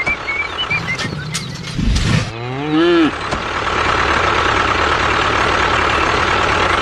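A cow moos once, a single call of under a second whose pitch rises and then falls, about two and a half seconds in. Chirping birdsong comes in the first second, and a steady engine-like hum with a constant whine runs from just after the moo.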